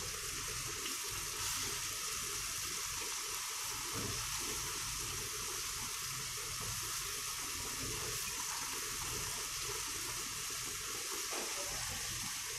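Chicken and halved tomatoes frying in oil and water in an iron karahi over a high gas flame: a steady sizzling hiss.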